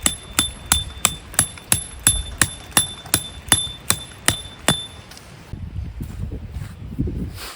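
Steady metal-on-metal hammering, about three strikes a second, each strike ringing briefly; it stops about five seconds in, followed by quieter handling sounds.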